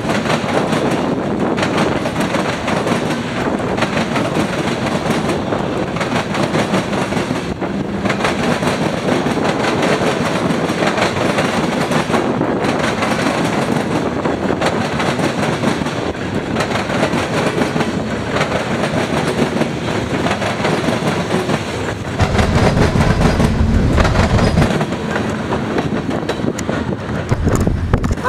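Freight train rolling past, its wheels clacking over the rail joints above a steady rumble. About twenty-two seconds in, a louder low rumble lasts for a couple of seconds.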